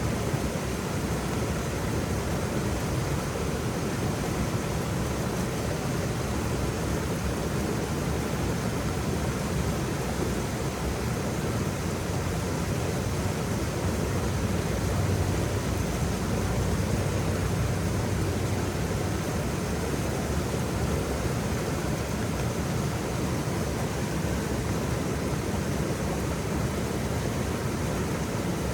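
Waterfall rushing steadily, a continuous even roar of falling water with most of its weight low down.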